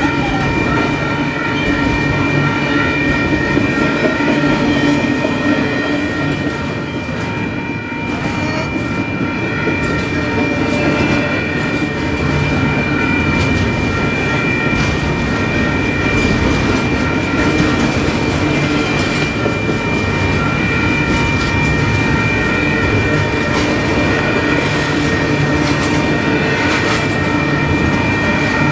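Double-stack container train cars rolling past at a grade crossing, their wheels rumbling and clacking steadily over the rails. A steady high-pitched ringing tone sounds above the rumble throughout.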